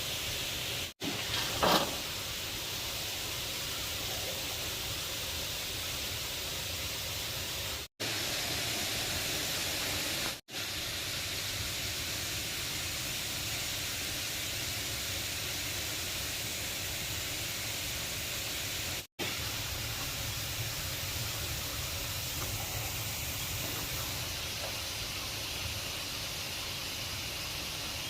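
Steady rush of a waterfall, an even noise with a low rumble under it. It cuts out abruptly four times for a split second, and there is a brief louder clatter about a second and a half in.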